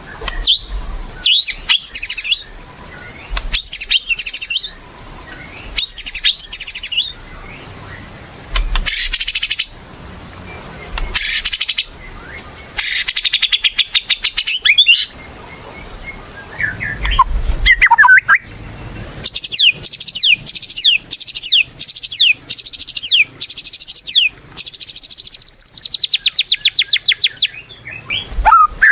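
White-rumped shama singing in loud, varied phrases of high whistles and chirps with short pauses between them. In the last third the song turns to long runs of rapid repeated notes.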